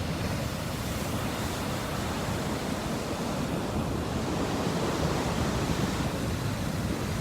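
Sea waves washing onto a stony beach: a steady rush of surf, with wind rumbling on the microphone.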